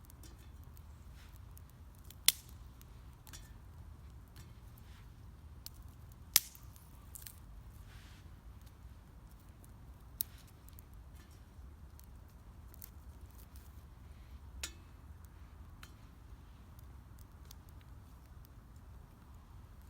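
Wood fire crackling: scattered faint crackles with two sharp pops a few seconds apart and a couple of softer ones later, over a low steady rumble.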